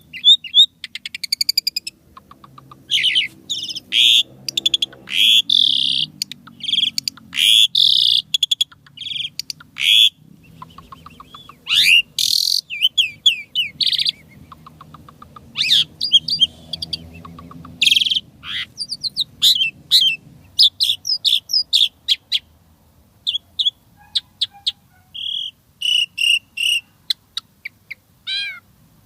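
Asian pied starling (jalak suren) singing a loud, varied song of short whistles, fast trills and sweeping notes with brief pauses between phrases, the mimicked 'isian' phrases that keepers prize.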